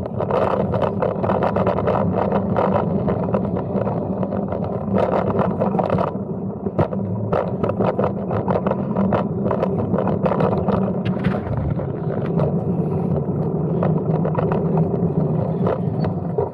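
Brompton folding bicycle being ridden: steady tyre and road noise with frequent small rattles and clicks.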